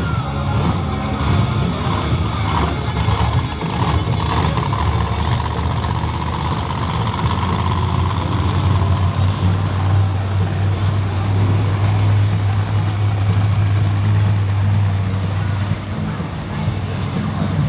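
Monster truck engines running loudly after being started, a deep steady drone that grows strongest midway, with uneven revving in the first few seconds.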